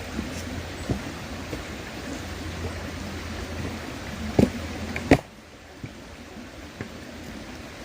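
Wood campfire crackling with a few sharp pops, the two loudest about four and five seconds in, over the steady rush of a river. Just after the second loud pop the background rush drops suddenly to a quieter level.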